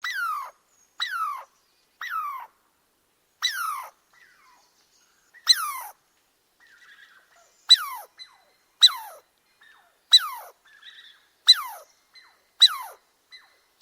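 An animal calling over and over: about eleven short cries, each sliding sharply down in pitch, spaced a second or so apart.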